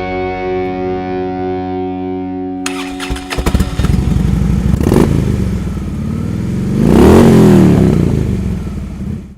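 Held music tones, then about three seconds in a motorcycle engine cuts in and is revved, its pitch rising and falling twice, the second rev the loudest, before the sound cuts off abruptly.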